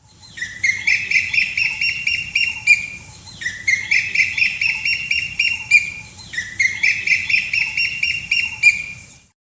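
A bird calling: a rapid run of chattering notes, repeated three times, each phrase about two and a half seconds long.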